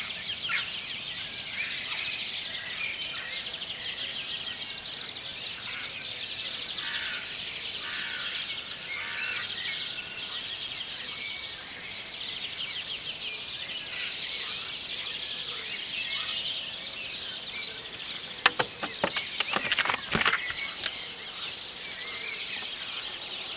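Morning chorus of many songbirds singing at once, full of chirps and rapid trills. A cluster of sharp clicks or knocks comes near the end and is louder than the birds.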